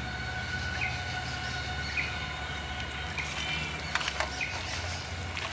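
A small bird chirping over and over, a short call about every second, over a low steady hum, with a few sharp clicks near the end.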